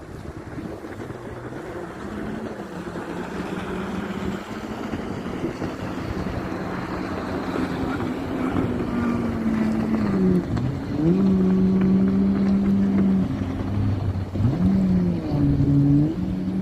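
A motor engine running steadily and growing louder over wind and surf noise; in the second half its pitch drops and jumps back up several times.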